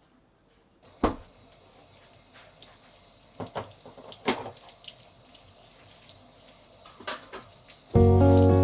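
A few sharp knocks and clicks over a faint hiss, the loudest about a second in, like objects being handled. Background music starts suddenly near the end.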